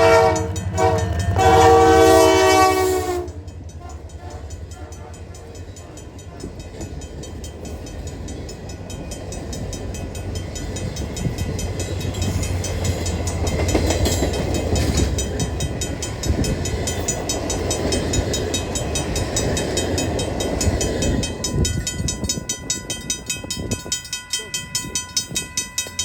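A train locomotive's multi-note air horn sounding loudly, then cutting off about three seconds in. The train's rumble then builds as it passes. Near the end the rumble gives way to a fast, even beat with steady ringing tones.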